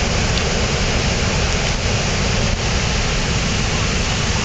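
Floodwater from Hurricane Irene pouring over a waterfall: a steady, loud rush of water from a river in heavy flood.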